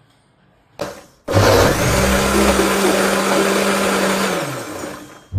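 A small electric motor, blender-like, starts abruptly after a brief burst and runs loud and steady for about four seconds. Near the end its pitch drops as it winds down.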